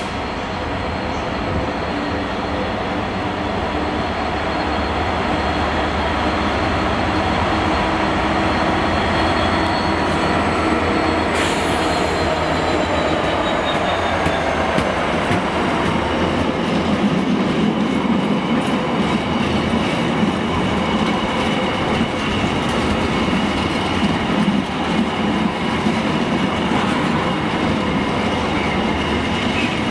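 Freightliner Class 66 diesel locomotive, with a two-stroke EMD V12 engine, approaching and running past, its engine note falling in pitch as it goes by about halfway through. It is followed by a long rake of container flat wagons rattling, with rapid clicking over the rail joints.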